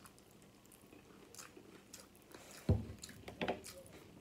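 Close-miked biting and chewing of a taco in a crunchy nacho-cheese taco shell, in scattered crackly mouth sounds. A dull, heavy thump comes a little under three seconds in and is the loudest sound.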